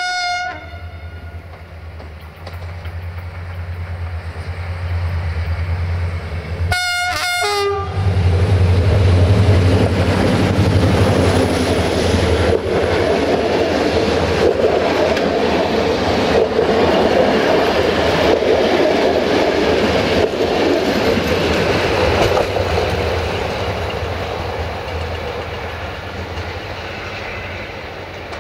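CFR class 65 'Jimmy' diesel locomotive 65-1300-6 sounds its horn: a short blast, then about seven seconds later a longer blast of about a second. It then passes close by with its engine rumbling, and its passenger coaches clatter over the rail joints. The sound fades as the train moves away.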